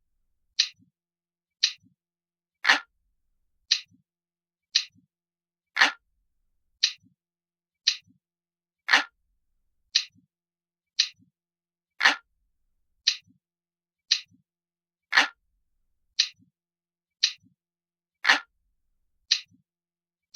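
Clock ticking steadily, about one tick a second, with every third tick louder.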